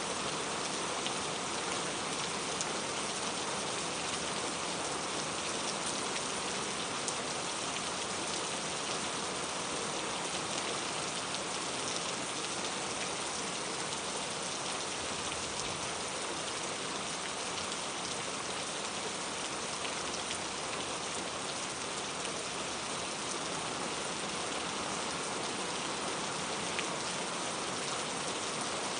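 Steady rain falling on a surface, a dense even hiss with countless small drop patters.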